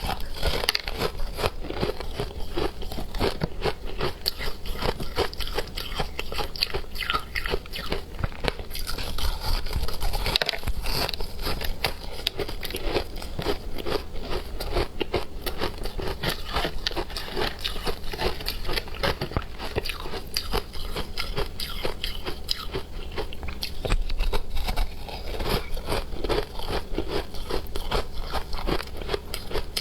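Hard frozen ice, matcha ice by the title, being bitten and chewed close to the microphone: a dense, continuous run of sharp crunches and cracks.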